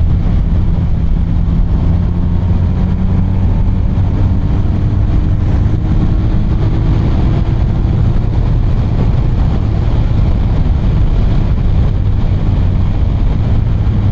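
BMW R 1250 RT's boxer-twin engine running steadily while riding at speed, mixed with wind and road noise, a steady low drone with a faint tone that rises slowly about four to eight seconds in.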